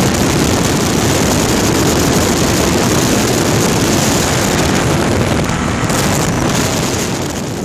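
Suzuki DT140 two-stroke V4 outboard motor running with the boat under way: a loud, steady rush of motor, wind and water that eases slightly near the end.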